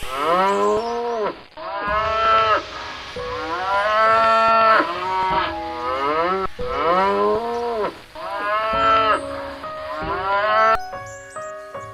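Cattle mooing: a run of about six loud moos, one after another, each rising and then falling in pitch.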